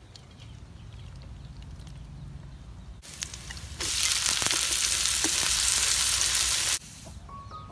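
Small snails and chopped garlic frying in a hot wok: a loud, steady sizzle that starts suddenly about four seconds in and cuts off sharply near the end. Before it there are a few seconds of quieter low rumble.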